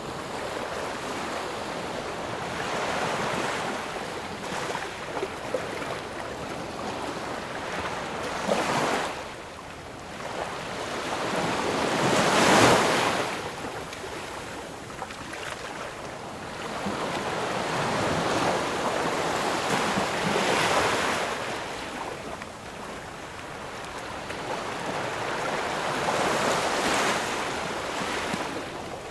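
Ocean surf: waves breaking and washing in, the rushing hiss swelling and falling in slow surges every few seconds, the biggest wave about halfway through.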